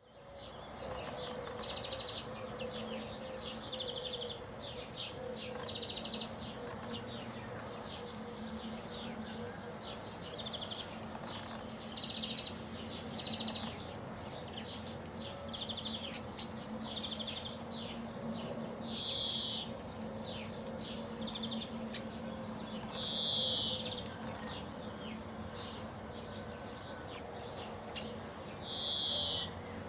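Small birds chirping over and over in quick short notes, with a few louder, longer calls about two-thirds of the way in and near the end. A steady low hum runs underneath.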